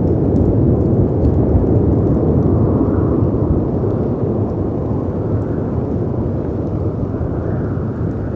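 Storm ambience of howling wind and sea waves crashing against rocks: a steady, heavy low rush, with gusts swelling about three seconds in and again near the end. A few faint crackles from a fireplace sit above it.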